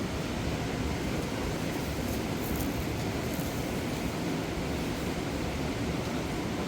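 Steady roar of a fast mountain river rushing over rocks.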